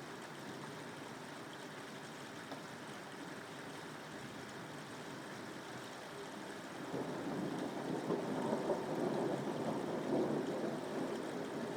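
Steady rain, with a low rolling rumble of thunder swelling in about seven seconds in and growing louder.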